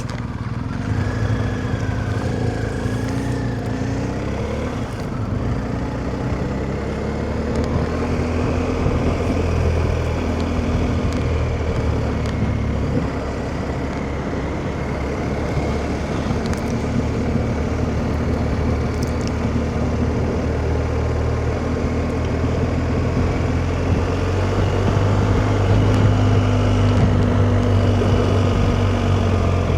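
BMW R1250GS boxer-twin motorcycle engine running on the move, its revs rising and falling gently with throttle and gear changes, heard with wind rush through a helmet-mounted microphone.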